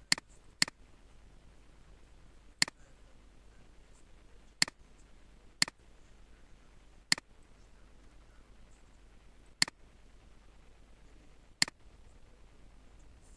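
Computer mouse clicking: eight single sharp clicks, spaced about half a second to two and a half seconds apart.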